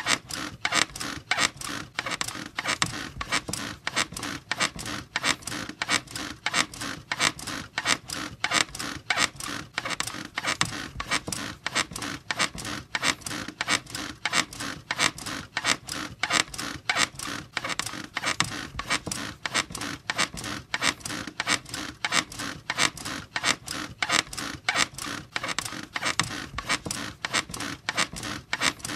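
Bed squeaking in a steady, fast rhythm, one creak after another several times a second without a break.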